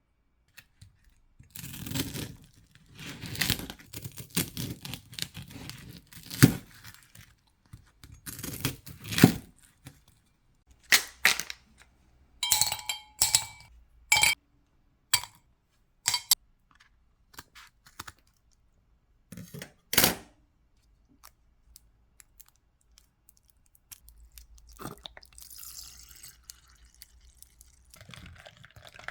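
Irregular handling noises: rustling and crinkling with scattered light knocks and clicks.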